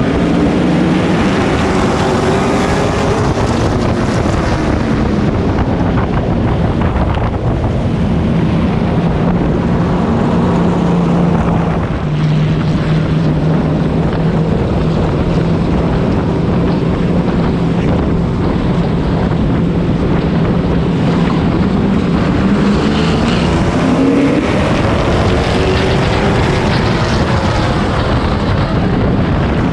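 Race truck engine heard from on board at racing speed, with wind buffeting the microphone. The engine note drops in the first few seconds, holds steady for a long stretch, then climbs again near the end.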